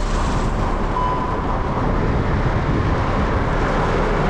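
Heavy rain falling on a car's roof and windscreen, heard from inside the cabin as a steady, loud hiss.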